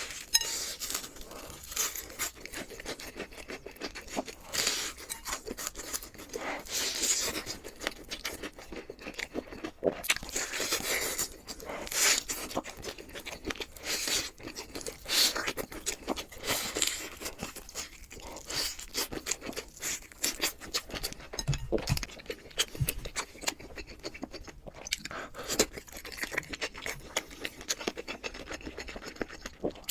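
Close-miked eating sounds: irregular wet chewing and crunching with scrapes of utensils or packaging, broken by sharper clicks.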